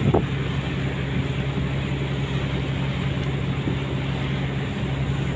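A ship's machinery running with a steady low hum under a constant noisy rush, with a brief rising sound just at the start.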